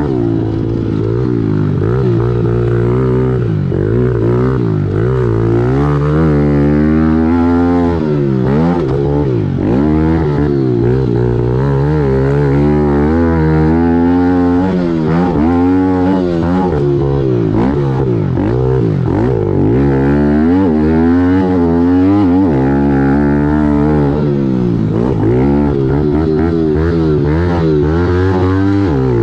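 2017 Kawasaki KLX110L pit bike's small four-stroke single-cylinder engine racing hard, its pitch climbing and dropping over and over as the throttle is opened and closed.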